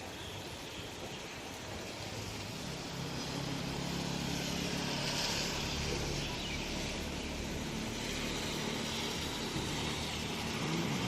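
An engine hums steadily over a constant rushing hiss, starting about two and a half seconds in and growing louder.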